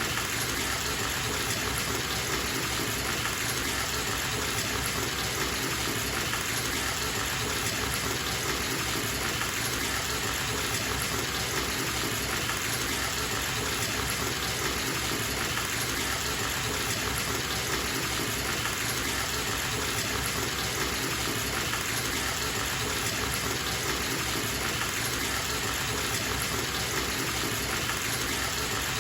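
Bathtub tap running, the water gushing steadily into the tub as it fills.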